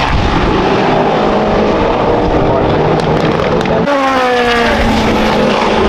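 Race cars at speed on track, engines running hard; about four seconds in another car's engine note comes in suddenly and falls in pitch as it passes.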